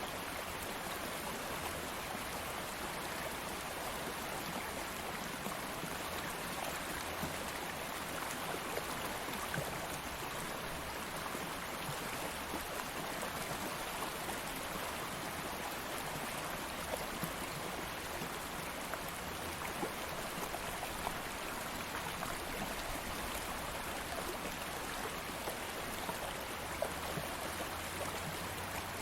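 Stream water flowing steadily, a continuous rushing wash with small splashes and trickles throughout.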